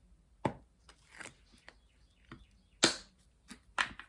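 Irregular sharp taps and clicks of diamond painting work: a drill pen and small resin drills against the canvas and tray, about six taps spread over a few seconds.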